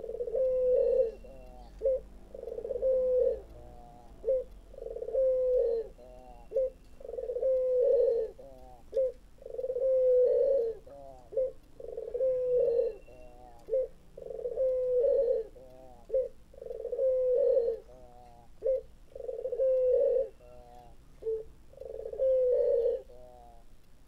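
Barbary dove (burung puter) cooing over and over. Each phrase is a long coo followed by a quick run of short rolling notes, repeating about every two seconds.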